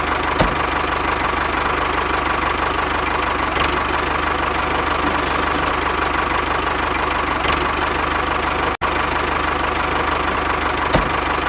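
A DIY tractor's engine running steadily with a knocking chug, cut off for an instant about nine seconds in, with a few light clicks over it.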